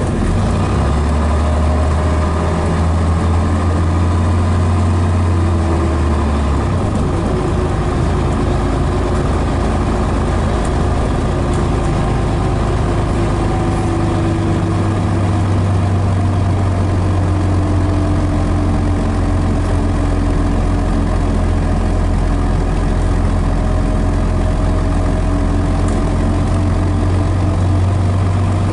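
Scania DS11 diesel engine of a Scania Metropolitan double-decker bus idling steadily, its low note shifting once about six seconds in.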